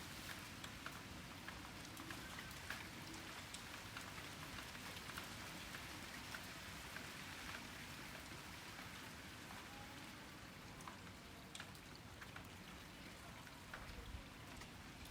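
Steady rain during a thunderstorm, a soft even hiss with many single drops striking close by as sharp little ticks.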